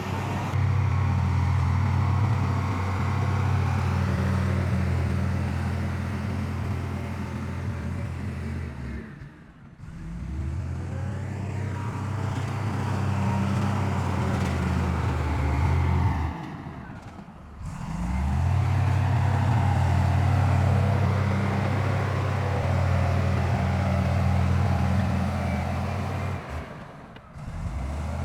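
Heavy diesel engine of earthmoving machinery running steadily at a low, even pitch. The sound drops away briefly three times.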